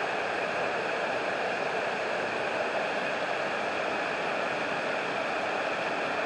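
River water pouring over an 1800s gristmill dam: a steady rush of falling water.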